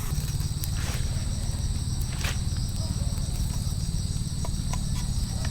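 Insects chirring in a steady high-pitched drone over a constant low rumble, with a couple of brief clicks.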